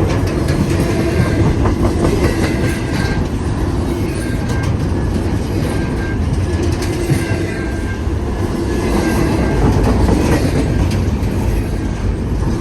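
Intermodal freight cars of a long train rolling past at speed, wheels clicking over rail joints in a steady loud rumble, with short, recurring high-pitched squeals.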